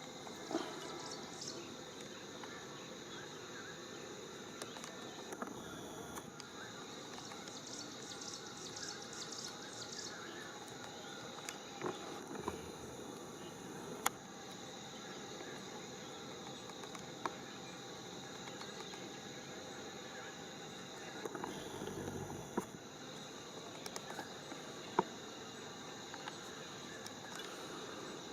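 Steady chirring of insects in the background, with a few brief clicks scattered through.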